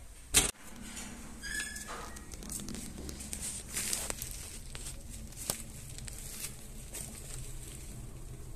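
A sharp knock about half a second in, then a wood fire burning in a closed fireplace: a low steady rumble with scattered faint crackles and clicks.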